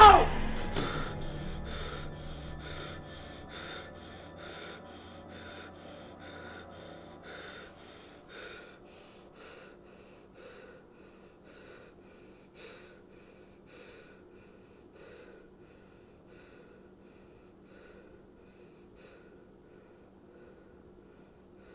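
A man's quick, heavy breathing, about two breaths a second at first, slowing to about one a second and fading to faint over the first ten seconds.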